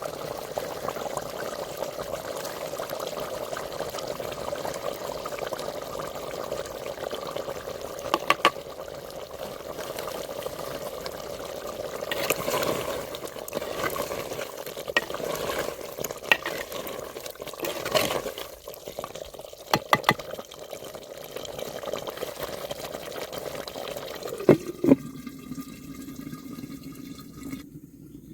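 Water running and splashing steadily, with a handful of sharp knocks scattered through it, the loudest near the end. The water sound gives way to a quieter, lower steady sound near the end.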